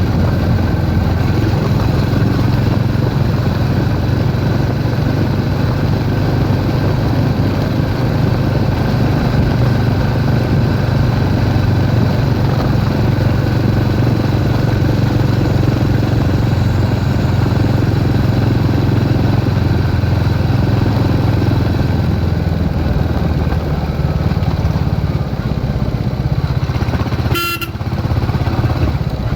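Royal Enfield Hunter 350's single-cylinder engine and exhaust running steadily. A brief high beep sounds near the end.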